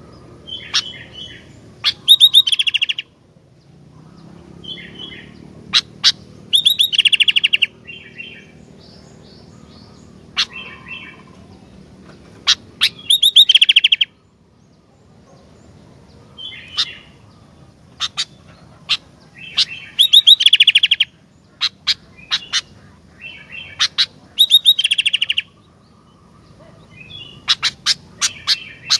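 Sooty-headed bulbul (kutilang) singing: short bubbling phrases repeated over and over, a louder phrase every five seconds or so, with sharp single chirps in between.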